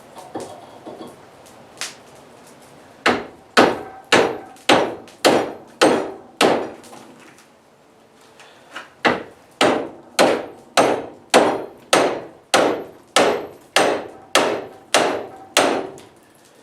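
Blacksmith's hammer striking steel on an anvil: a few light taps, then two runs of steady blows, about seven and then about a dozen, with a short pause between. Each blow rings briefly.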